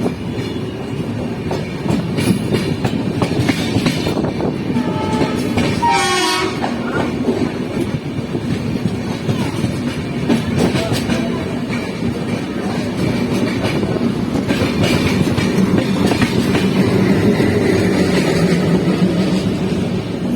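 Passenger express train pulling out, its coaches rolling past with wheels clicking over the rail joints. About five seconds in, a short horn note sounds, falling in pitch as it passes.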